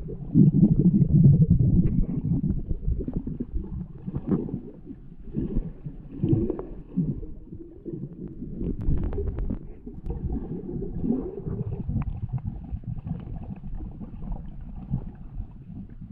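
Underwater sound of a swimmer moving through a swimming pool, picked up by a GoPro under water: a low, muffled rumbling and swishing of water, loudest in the first two seconds, with scattered small clicks.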